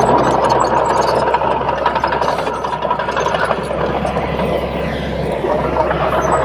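Bulldozer's diesel engine running steadily, with a thin steady whine over the engine noise.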